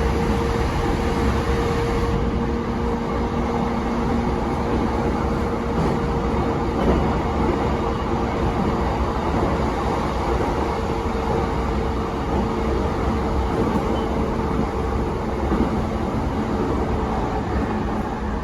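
Running noise inside a JR East E233-7000 series electric train car at speed, with a steady rumble of wheels on rail and a faint steady tone from the traction motors.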